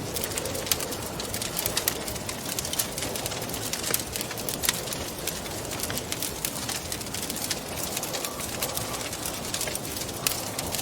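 Wood fire crackling in a fireplace, with frequent sharp snaps and pops, over a steady rushing of wind.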